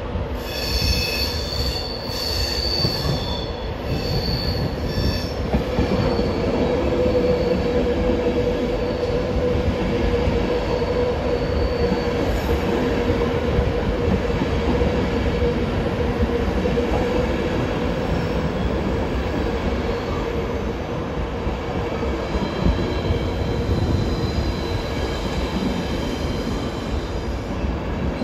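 LNER InterCity 225 train of Mk4 coaches rolling along the platform with a steady rumble of wheels on rail. High-pitched wheel squeal sounds in the first several seconds and again near the end, with a steadier lower tone through the middle.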